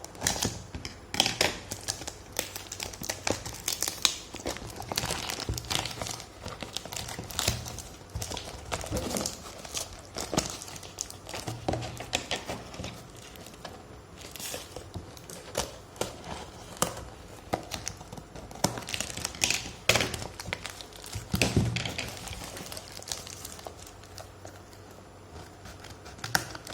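Parcel packaging being torn open and crumpled by hand: an irregular run of crinkling and tearing.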